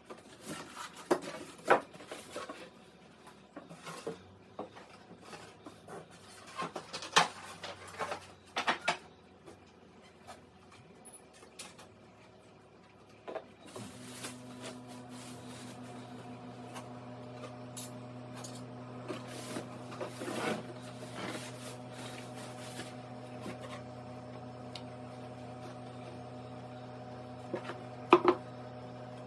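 Clicks and knocks of the Samsung MS28J5255GB microwave oven being handled, then about halfway through a steady electric hum starts as the microwave is switched on and runs, with a couple of sharp clicks near the end.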